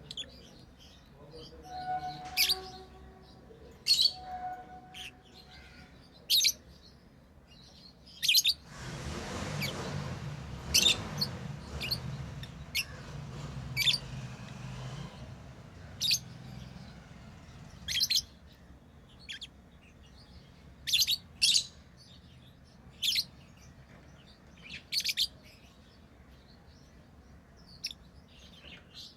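Lovebirds chirping in short, sharp, high-pitched calls every second or two. A few seconds of broad noise run under the calls around the middle.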